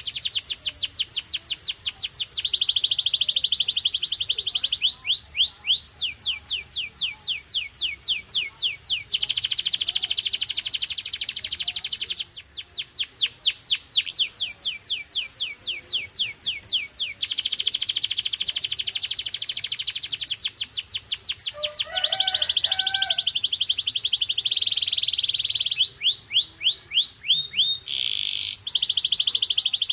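Canary singing: a continuous string of high trills and rolls, each a fast run of identical repeated notes, switching to a new speed and pattern every few seconds.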